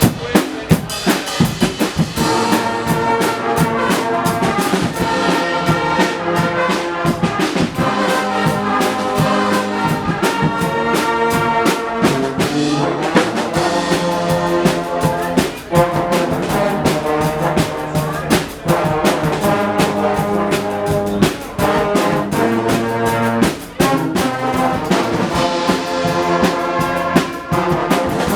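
Guggenmusik carnival band playing: trumpets and trombones blare chords over a steady beat of bass drum, snare and cymbals.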